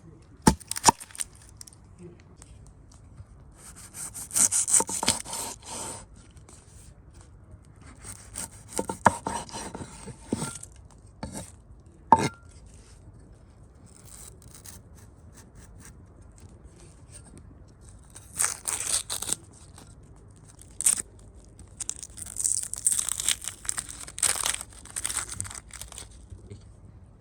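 Food being prepared by hand: four bursts of crisp rustling and tearing, each a few seconds long, with a few sharp knocks in between.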